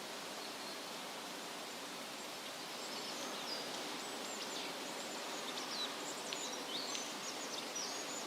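Wind rustling through leafy trees as a steady hiss, with small birds chirping rapidly in short high notes from a few seconds in.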